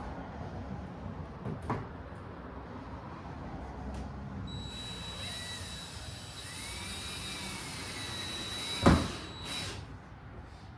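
Cordless drill running with a steady high whine for about five seconds, starting about four seconds in, with a single loud knock near the end of the run.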